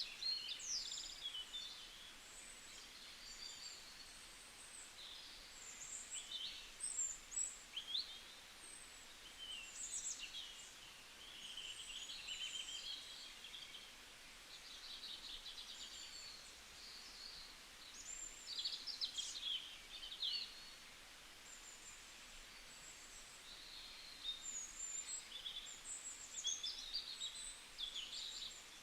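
Small songbirds chirping and trilling: many short, high calls that come in bursts every few seconds over a faint, steady background hiss.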